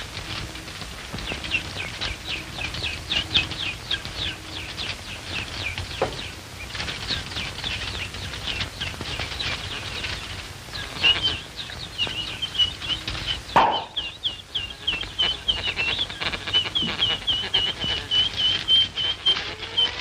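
Bird twittering: rapid short high chirps, several a second, ragged at first and then an even, steady run through the second half, with a sharp crack about two-thirds of the way through.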